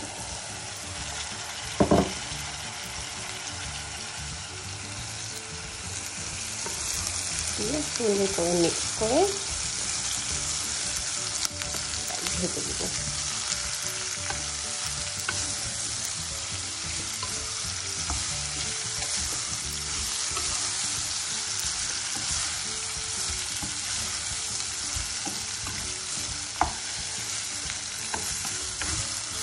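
Potato strips and sliced bitter gourd sizzling in hot oil in a nonstick pan while being stirred with a wooden spatula. A sharp knock about two seconds in, and the sizzle grows louder from about six seconds in.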